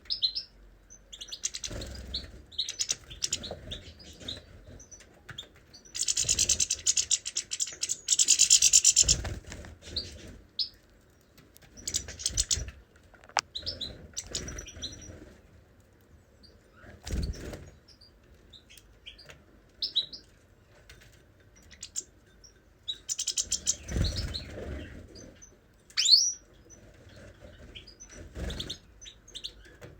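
Caged pet birds chirping in short, scattered calls. A dense, rapid twittering burst comes about six seconds in and a shorter one about three quarters of the way through. Occasional soft low thumps are heard among the calls.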